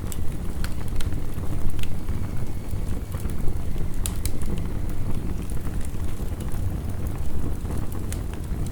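Wood fire crackling, with sharp pops scattered irregularly and one louder pop about four seconds in, over the steady rush of heavy rain.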